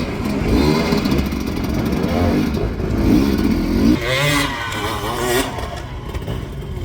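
Dirt bike engine revving up and down in repeated throttle bursts, the pitch rising and falling again and again, as on a hard enduro rock climb. A burst of hiss joins in from about four seconds in and stops after about a second and a half.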